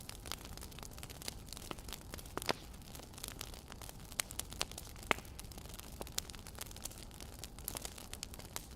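Wood fire crackling: irregular small pops and snaps over a low steady rumble, with a couple of louder pops about two and a half and five seconds in.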